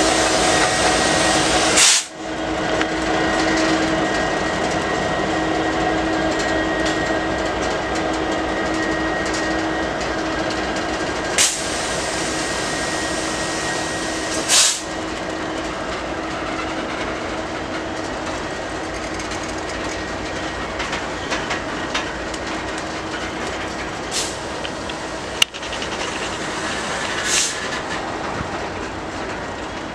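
Train rolling by: a steady rumble and hiss with a faint held tone, broken by a few brief sharp knocks.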